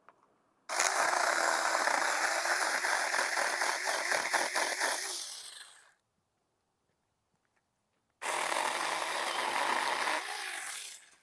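A Saker mini battery-powered electric chainsaw running in two bursts, about five seconds and then about three seconds long, cutting water sprouts off a tree.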